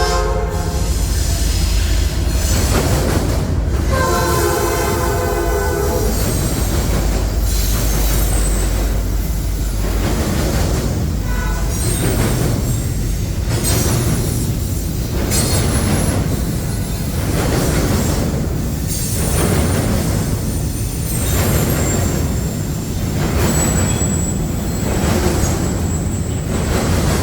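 Freight train passing close by: its multi-chime horn sounds a chord briefly at the start and again for about three seconds, then the cars roll past with a regular beat over a steady low rumble, and a thin high wheel squeal comes in near the end.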